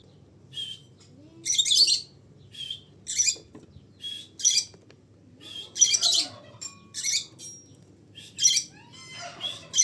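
Birds calling: a series of short, harsh, high-pitched squawks and chirps, roughly one a second, with a few brief thin whistles mixed in.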